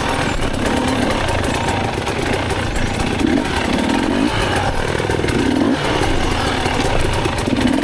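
Dirt bike engine revving, its pitch climbing and dropping several times over a dense, noisy running sound.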